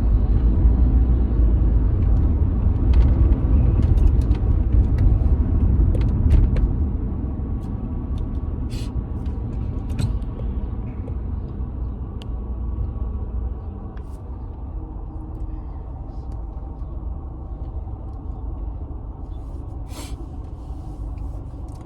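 Steady low rumble of a moving road vehicle heard from inside it, with scattered small clicks and knocks. It is loudest for the first several seconds and gradually eases off through the rest.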